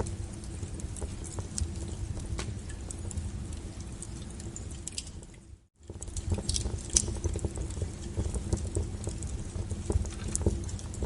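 Wood fire burning with a low rumble and frequent sharp crackles and pops. About halfway through, the sound fades almost to nothing for a moment, then comes back.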